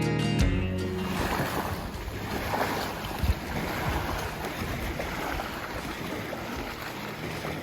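Acoustic guitar music cuts off about half a second in, giving way to a steady wash of wind and water noise with irregular low buffets, as from wind on the microphone out on the lake.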